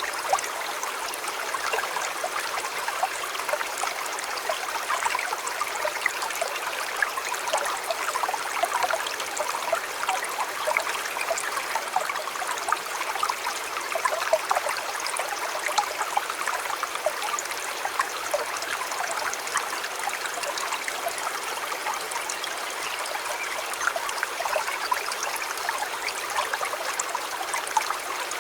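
A river flowing steadily, babbling over stones with a constant patter of small splashes and no let-up.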